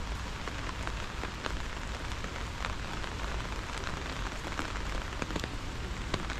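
Steady rain falling, with many sharp individual drops ticking close by at irregular intervals.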